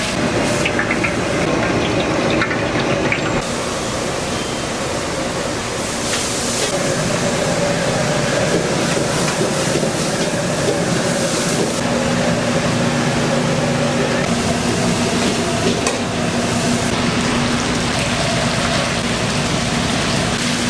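Steady roar and hiss of a busy restaurant kitchen, with a low steady hum underneath and a second hum joining about halfway through.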